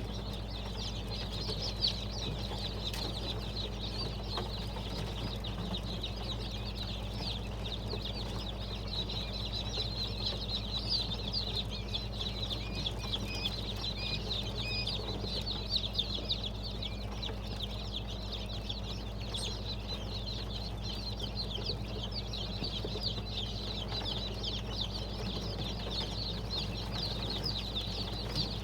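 A flock of quail peeping and chirping continuously, many short high calls overlapping, over a steady low electrical hum.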